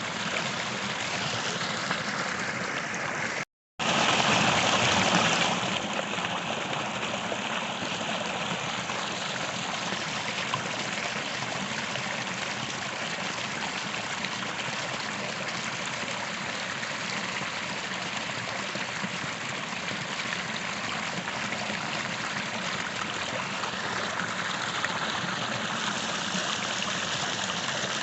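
Creek water flowing steadily over rocks, a continuous rushing and trickling. About three and a half seconds in, the sound cuts out completely for a moment, then comes back louder for about two seconds before settling.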